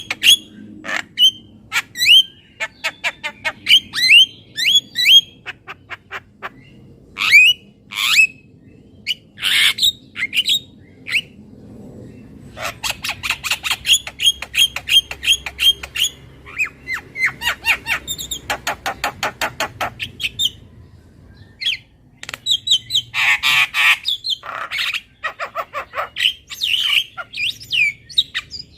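Javan myna calling: long runs of quick, sharp chirps and squawks, some in rapid chattering trains, broken by short pauses, with a louder, harsher squawk lasting about a second a little past the middle.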